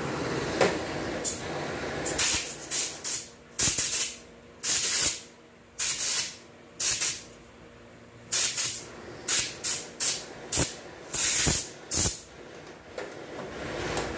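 Compressed air from a blow gun hissing in a quick series of short bursts, about eighteen in all, some in close clusters and some with pauses between them, during a transmission rebuild.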